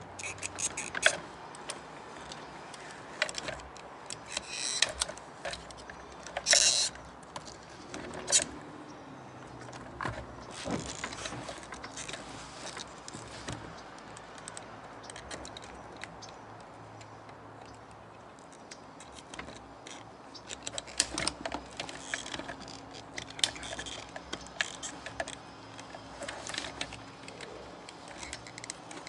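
Screwdrivers prying at the plastic clips of a car's fuel pump holder: irregular clicks, scrapes and small knocks of metal on plastic.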